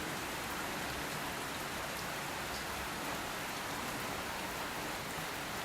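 Steady rain falling and pattering on surfaces, an even hiss with a few faint separate drips.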